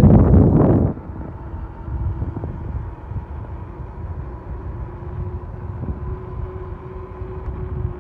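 Wind buffeting a handheld phone's microphone while riding an electric bike. It is loud for the first second, then drops suddenly to a lower rumble of wind and road noise, with a faint steady whine throughout.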